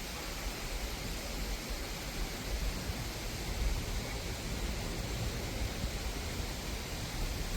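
Wind on the microphone outdoors: a steady hiss with an uneven low rumble.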